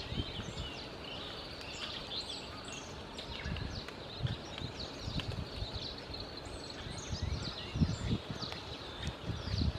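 Many birds chirping in quick, short, falling notes that overlap one another, over low uneven rumbling thumps.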